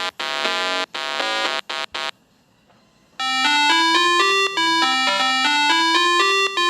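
Electronic buzzer tones in short pulses for about two seconds, then after a brief pause a bright electronic chime melody of quick stepped notes, like a doorbell jingle.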